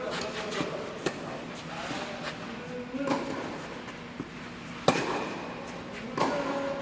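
Tennis ball struck by rackets during play: sharp hits a few seconds apart, one about a second in and the loudest about five seconds in, with fainter knocks in between.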